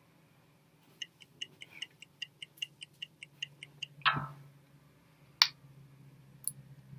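Electronic app sound effects: a quick run of pitched ticks, about five a second for three seconds, then a loud falling swoop and a single sharp click.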